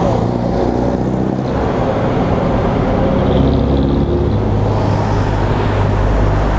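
A Suzuki Raider 150 carb's single-cylinder four-stroke engine idling steadily at a standstill, with road traffic running past.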